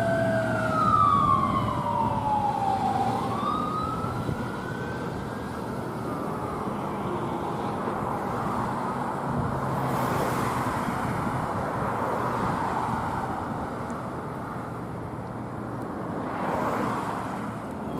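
Emergency vehicle siren wailing, sweeping down then back up in pitch over the first few seconds before fading into steady traffic and engine noise.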